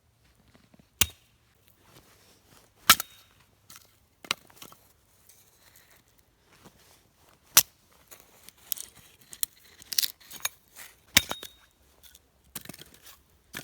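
Dry pine wood cracking and snapping: about five sharp, loud cracks spaced a couple of seconds apart, with runs of smaller crackles and snaps between them in the second half.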